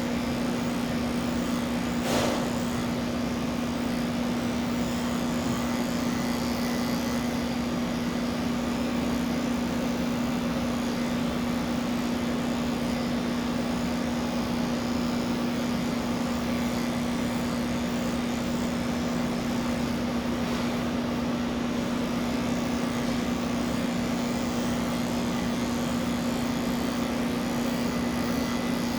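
Electric pet clippers running with a steady, unbroken buzz while shaving a cat's coat. A single brief click about two seconds in.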